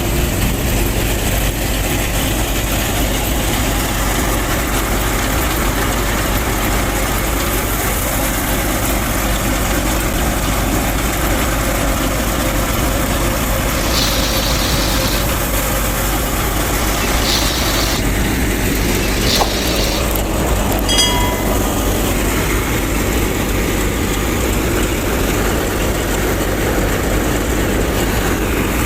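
Steady running noise of a small machine motor, even in level throughout, with a few faint brief high tones a little past the middle.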